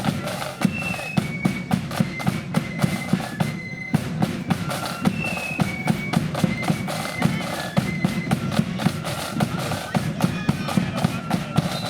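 Blood-and-thunder flute band playing a march: flutes carrying the tune over loud, rapid snare drum strikes and heavy bass drum beats.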